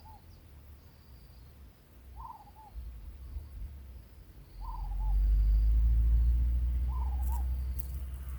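A bird repeats a short, falling, quavering call about every two seconds. From about halfway through, a loud low rumble rises under the calls and is the loudest sound.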